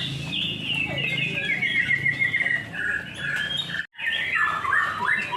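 White-rumped shamas (murai batu) singing: a dense stream of quick, varied whistled phrases that overlap. The sound drops out completely for a split second just under four seconds in.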